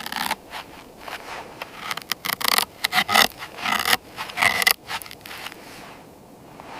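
A series of irregular scraping, rasping strokes, loudest in the middle and dying away near the end.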